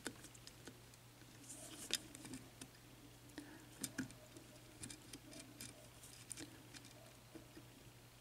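Faint, irregular small clicks and ticks of a metal lock pick probing and setting the pins of a 6-pin Yale mortise cylinder held under very light tension.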